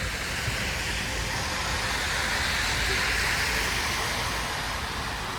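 A vehicle passing on a snowy, wet city street: tyre hiss that swells to a peak about halfway through and then fades, over a steady low traffic rumble.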